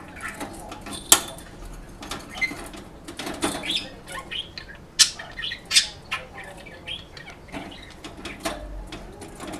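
Budgerigar making a racket in its cage: sharp knocks and rattles, the loudest about a second in and again around five and six seconds in, mixed with short chirps. The commotion is the bird clamouring to be let out of the cage.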